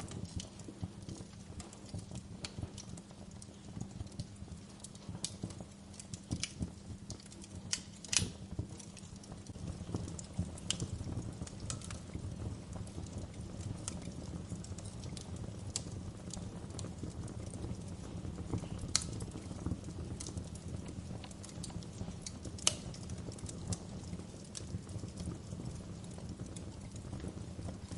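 Wood fire crackling in a fireplace: irregular sharp pops and snaps over a low, steady rumble of the flames, with a few louder pops standing out.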